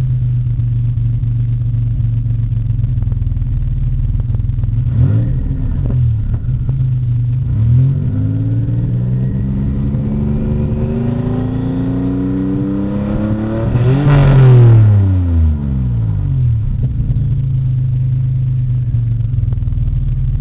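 1986 Nissan 300ZX Turbo's VG30ET V6 running through a new 3-inch turbo-back exhaust: it idles, is blipped briefly twice about five and eight seconds in, then revved in a slow climb to its loudest peak about fourteen seconds in, with a faint high whine rising along with it, before dropping back to a steady idle.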